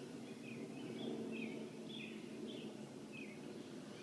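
A small songbird chirping: a quick series of short, falling chirps, about two to three a second, over a faint steady low hum.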